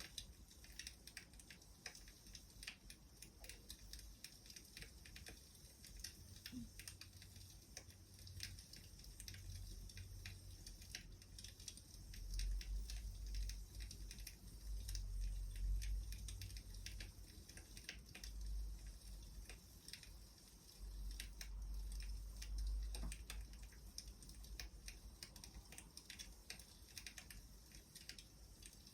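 Wood fire crackling faintly, with many small irregular pops and snaps. A low rumble swells about twelve seconds in and again about twenty-one seconds in.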